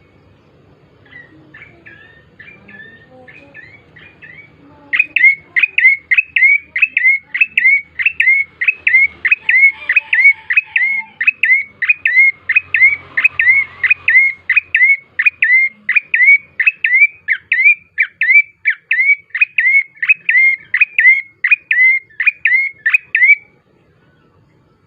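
A prenjak coki (ashy tailorbird) singing: a few soft notes, then about five seconds in a long loud run of sharp, evenly repeated chip notes, roughly two a second, which stops shortly before the end. It is a 'gacor' lure song used to get other birds singing.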